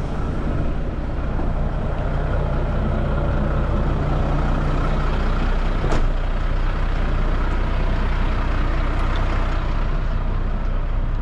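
Heavy truck's diesel engine running steadily, with a sharp click about six seconds in.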